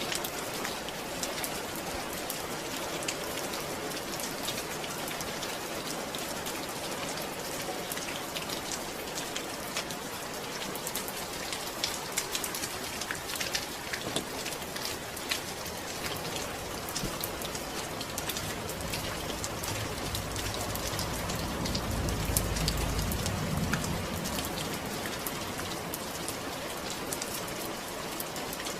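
Steady rainfall, a dense hiss full of fine drop patter. A low rumble swells and fades again about two-thirds of the way through.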